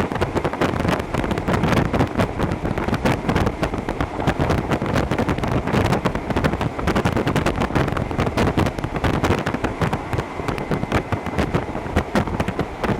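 Hokuso Railway 7260 series electric train running at speed, heard from inside the car: a steady rumble of wheels on rails with a dense, irregular rattling clatter and a faint steady whine.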